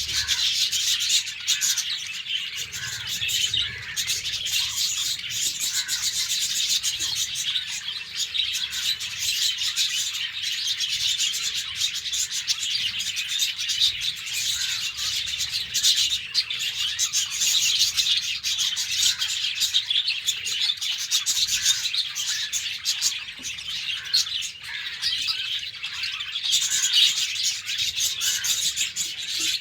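A flock of caged budgerigars chirping and chattering without a break, many rapid overlapping high chirps.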